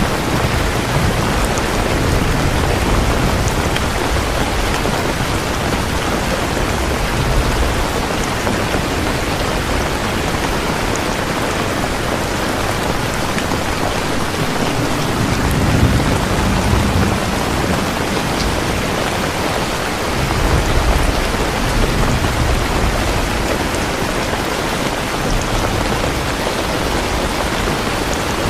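Steady heavy rain, with a low rumble swelling twice in the middle, around halfway and again a few seconds later.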